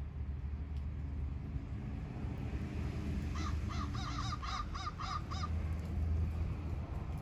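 American crow cawing: a quick run of about ten short caws, a few seconds in, over a steady low rumble.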